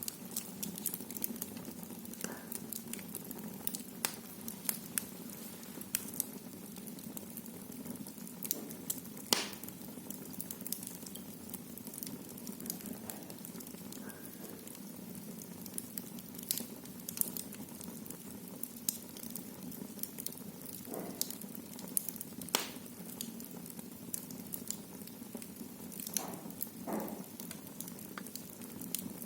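Wood fire burning in a fireplace: a steady low rush of flame with frequent, irregular crackles and pops, the loudest pops about nine seconds in and again about 22 seconds in.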